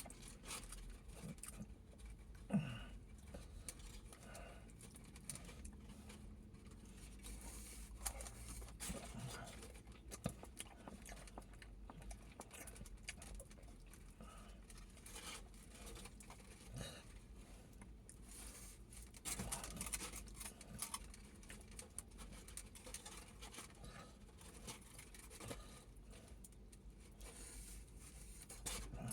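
Faint close-up eating sounds of a döner kebab being chewed, with many small scattered clicks and rustles over a low steady hum.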